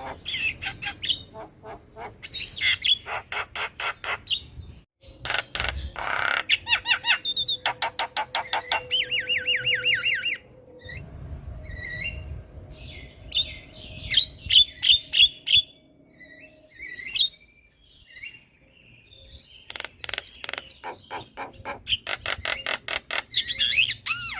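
Javan myna calling: fast runs of harsh chattering chips and squawks, with a quick trill of falling notes and a few short whistled notes. It breaks off into a brief lull a little past the middle, then the chattering resumes.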